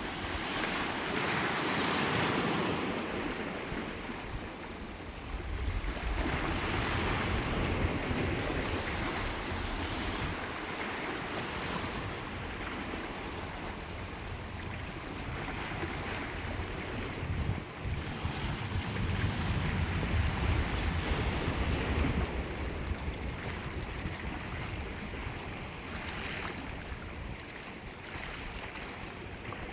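Sea waves breaking and washing up the shore, swelling and falling back every few seconds, with wind rumbling on the microphone.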